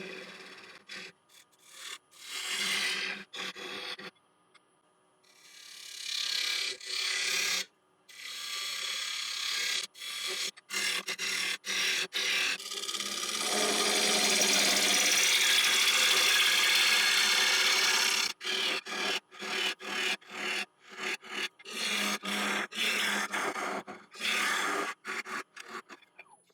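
Turning tool cutting into a spinning sycamore bowl blank on a wood lathe as the inside is hollowed out, a rough shearing and scraping over the lathe's steady hum. It comes in repeated passes broken by frequent short gaps, with one long unbroken cut in the middle.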